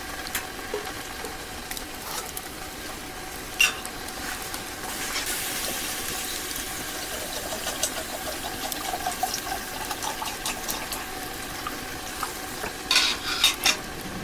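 Food sizzling in a pan, a steady hiss, with a few sharp clicks of a utensil, one a few seconds in and a quick run of them near the end.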